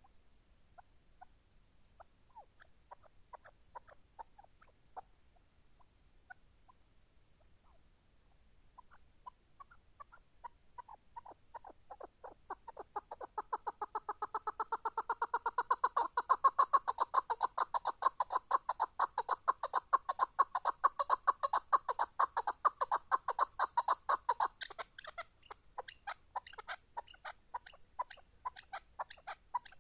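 Chukar partridge calling: a few scattered short notes, then from about nine seconds a fast run of repeated clucking notes that builds into a loud, rapid series through the middle, and thins into looser, scattered notes near the end.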